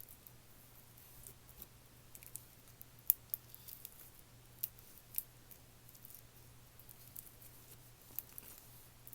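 Slime being handled and pressed: scattered faint sticky clicks and pops, the sharpest about three seconds in, over a faint steady low hum.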